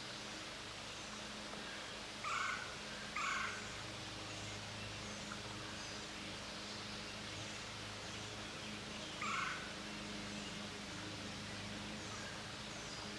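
Woodland birds: faint high chirps scattered throughout, with three louder short calls, two close together early on and one about two-thirds of the way through, over a steady low hum.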